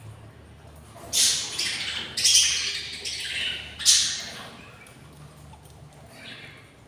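Budgerigar chicks giving harsh, raspy squawks, several in a row about a second in and a fainter one near the end: the begging calls of hungry nestlings.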